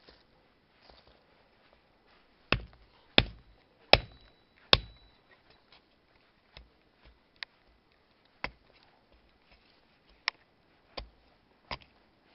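Axe chopping a small pine stick to split it into tinder. Four loud strikes come in quick succession about two and a half to five seconds in, followed by a handful of lighter, scattered knocks.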